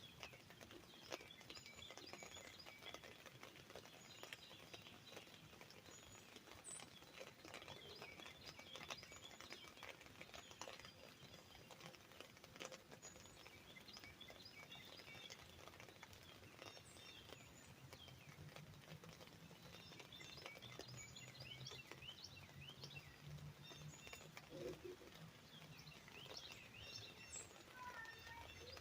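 Light rain pattering on an umbrella as scattered drop ticks, with several birds chirping. A faint low hum comes in during the second half.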